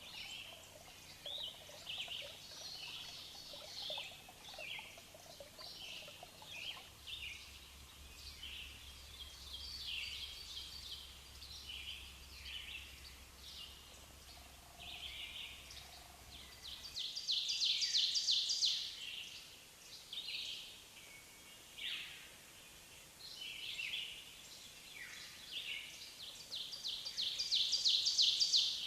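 Several birds singing and calling over faint outdoor background noise, with two louder bursts of fast repeated trilled notes, one about two-thirds of the way in and one near the end.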